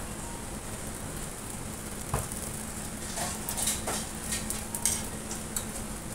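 Fried rice frying in a pan with a steady sizzle. From about two seconds in, a spatula knocks and scrapes against the pan several times as it is stirred.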